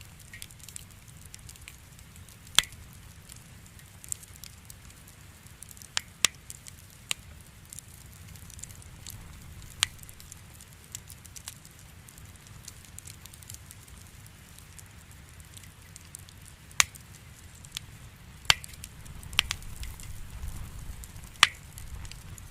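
Wood fire burning, the logs giving off sharp, scattered pops and crackles a few seconds apart over a low steady rumble that swells a little near the end.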